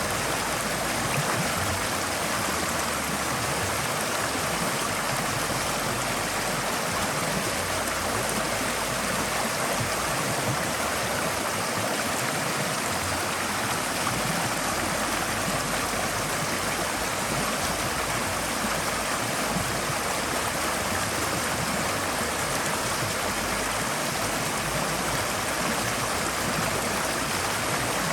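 Forest stream flowing over rocks: a steady, even rush of running water with light gurgling.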